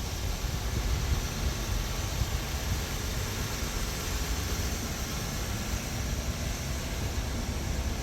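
Wind in a snowstorm buffeting the microphone: a steady rushing noise with an uneven low rumble throughout.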